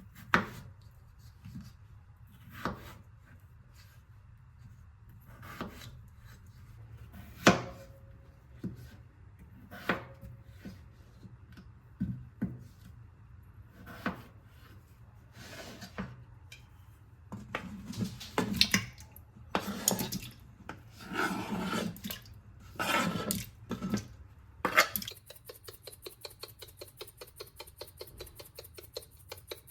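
Kitchen utensils and dishware being handled while cooking: scattered knocks and clinks, then a busier stretch of scraping and clattering, giving way near the end to a rapid, even clicking of several strokes a second.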